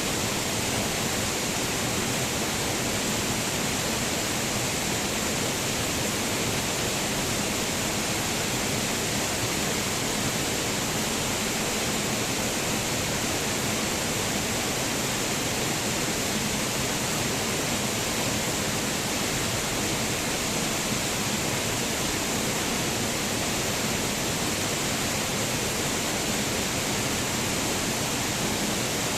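Waterfall pouring steadily: an unbroken hiss of falling water, even in level, with no other sound standing out.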